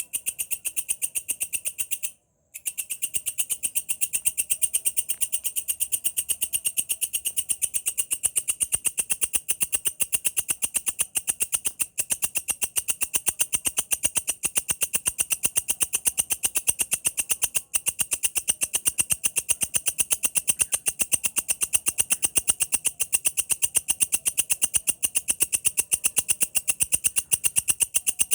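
Walang kecek insect calling: a rapid, even train of high-pitched chirping pulses that runs on without a break except for a short gap about two seconds in.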